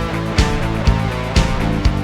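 Rock band playing an instrumental passage with no vocals: guitars and bass over a steady drum beat, a hit about every half second.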